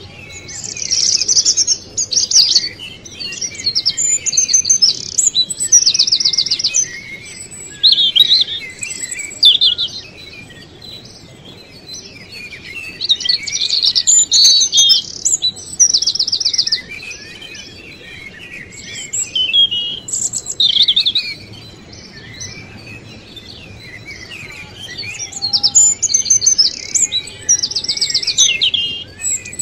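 Small birds chirping and twittering close by, in several bouts of rapid, high chirps and trills with short lulls between them.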